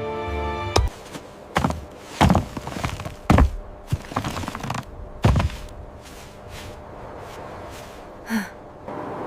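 A sustained musical chord cuts off just under a second in, then a series of irregular heavy thunks with lighter knocks between them. A short rising pitched squeak sounds near the end.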